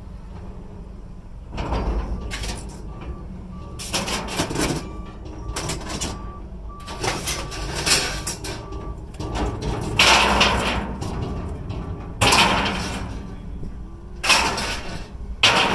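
Scrap metal being unloaded by hand: pieces scraping and clattering as they are pulled out and dropped, in about six separate bursts over a low steady rumble.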